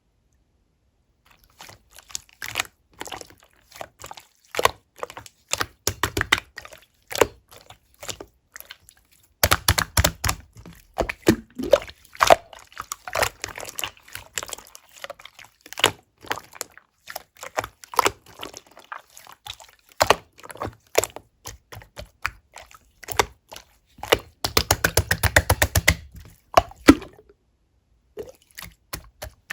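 Clear slime being worked by hand, making many short sticky clicks and small pops, with a dense run of rapid pops near the end.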